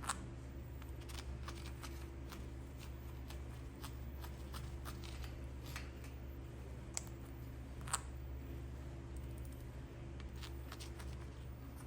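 Scattered light clicks and scratches from a pet parrot moving about and working with its beak, with a few sharper clicks at the start and around seven and eight seconds in.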